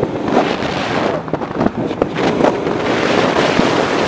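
Loud rushing wind buffeting the microphone, over a moving car.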